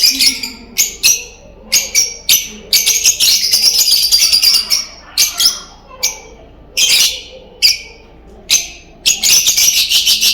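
Pet lovebirds calling: a string of sharp, shrill chirps, with two longer runs of rapid chattering, one about three seconds in and one near the end.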